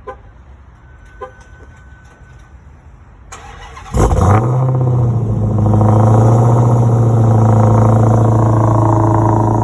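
Supercharged 6.2-litre Hemi V8 of a Dodge Challenger SRT Hellcat cold-starting. After a few clicks and a short beep, it fires about four seconds in with a loud burst, then settles into a steady idle.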